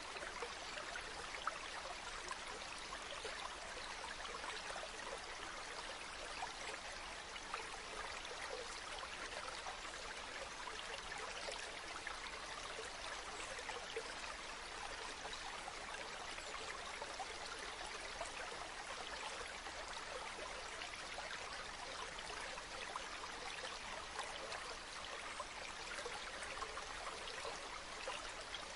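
River water flowing steadily over stones, a continuous babbling with small splashes.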